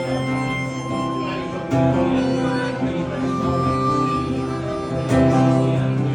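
Instrumental break in a country-folk song: acoustic guitar with a harmonica playing long held melody notes. There is no singing.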